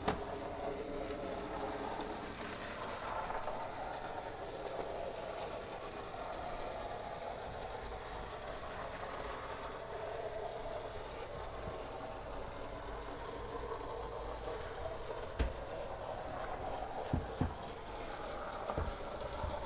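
Graham Farish N gauge SECR N class model locomotive with no sound fitted, running around a layout: a quiet, steady whir of its wheels on the track, with a few sharp clicks in the second half.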